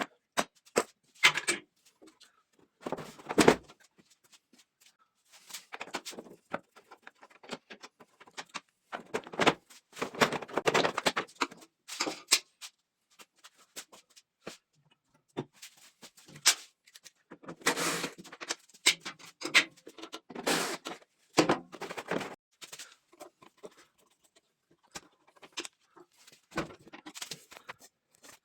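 Irregular clicks, knocks and clattering of hand tools and metal engine parts being handled, in short bursts with pauses between them.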